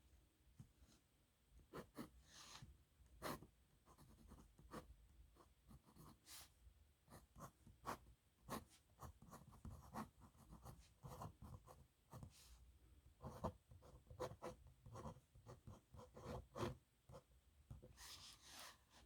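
Faint scratching of a nib pen on paper, written in quick irregular strokes with small ticks where the nib touches down and lifts, and one longer scratchy stroke near the end.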